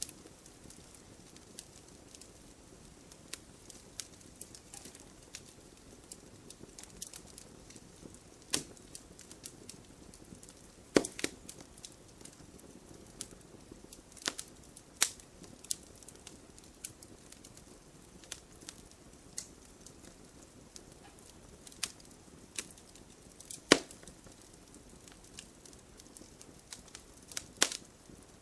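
Wood fire crackling: irregular sharp pops and snaps over a faint steady hiss of burning, with a few louder snaps, the loudest about eleven seconds in and again near twenty-four seconds.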